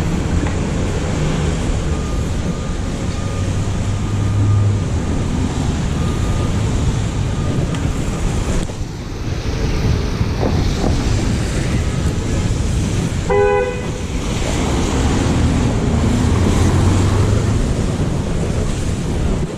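Steady rumble of vehicle noise with one short horn toot about two-thirds of the way through.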